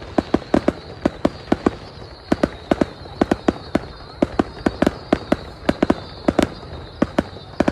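New Year fireworks going off: an irregular string of sharp bangs and crackles, several every second.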